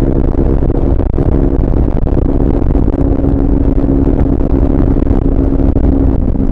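Triumph Speed 400's single-cylinder engine running at steady high revs under way, its pitch holding even, over a heavy low rumble.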